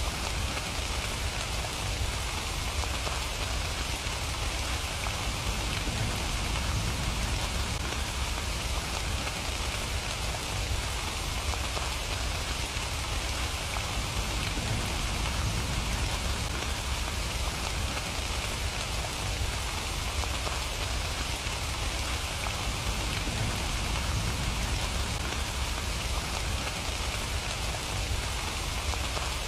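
Steady rain falling on surfaces, an even hiss of drops with a low rumble beneath, unchanging throughout.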